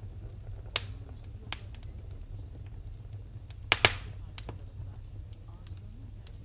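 Wood fire crackling in a fireplace: scattered sharp pops, the loudest a quick pair a little under four seconds in, over a steady low rumble.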